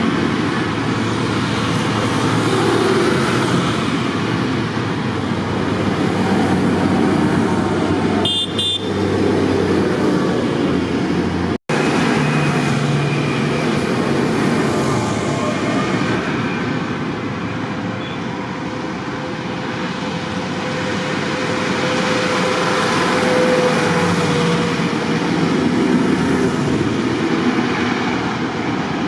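Tractor engines running as a procession of tractors goes by, with a short horn toot about eight seconds in.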